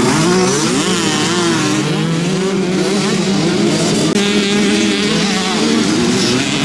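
Several motocross bikes running at once, their engines revving up and down as they race round the track.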